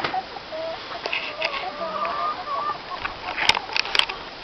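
Hens clucking with drawn-out, wavering calls, then a few sharp knocks near the end, over a steady hiss of wind.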